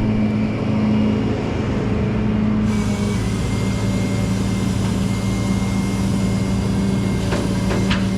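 Rollback tow truck's engine running with a steady low drone, which changes character about three seconds in.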